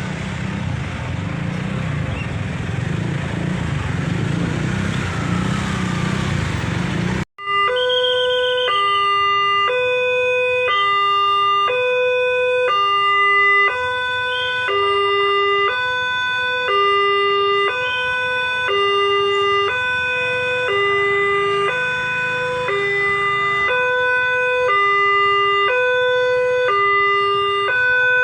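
Road traffic noise at first. After a sudden cut, an electronic level-crossing warning alarm sounds a steady alternating two-note chime, high and low, each note about a second long.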